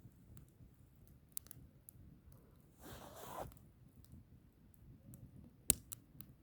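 Wood fire burning with a low rumble and scattered sharp crackles and pops, the loudest pop about two-thirds of the way through, and a short hiss about three seconds in.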